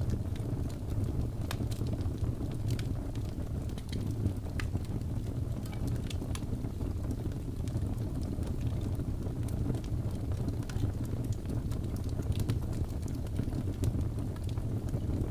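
Wood fire burning with a steady low rumble and irregular sharp crackles and pops scattered throughout.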